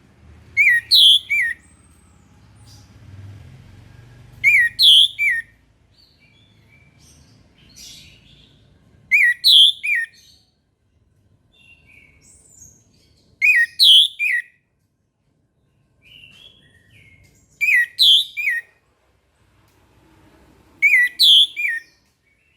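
Orange-headed thrush singing: a short, loud, clear phrase of a few quick notes, repeated six times at about four-second intervals, with soft quiet notes between the phrases.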